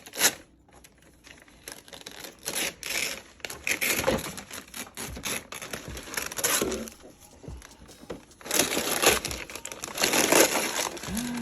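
Crinkling and rustling from something being handled, in irregular bursts, with a short sharp crackle just after the start and the loudest stretch near the end.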